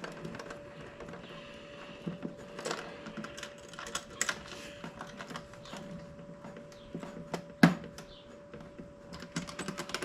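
Irregular light clicks and taps of hand tools and small parts being handled while a wood screw is fitted, with one sharp knock about three-quarters of the way through. A faint steady hum runs underneath.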